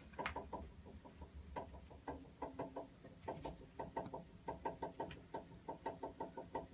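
Water heater making a rapid, irregular ticking: quick runs of soft clicks, about six or seven a second, broken by short pauses. The noise is not coming from the pipes.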